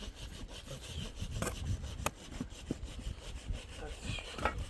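Repeated rasping, scraping strokes in a quick, even rhythm.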